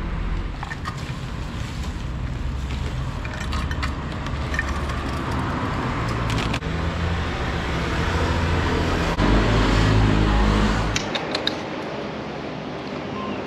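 Motor vehicle engine running with traffic noise. The engine grows louder about nine seconds in, then cuts off suddenly about two seconds later.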